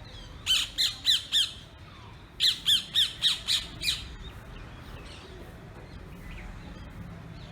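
Parrot squawking in two quick runs of short calls, about four and then about six, each call rising and falling in pitch; after about four seconds the calls stop.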